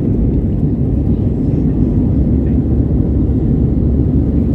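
A loud, steady low rumble of noise with no distinct tones or strikes.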